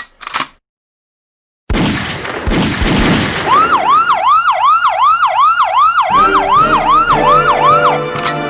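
A fast yelping siren, its pitch swooping up and down about three times a second, over loud noise with repeated bangs. It follows a short click and a second and a half of silence.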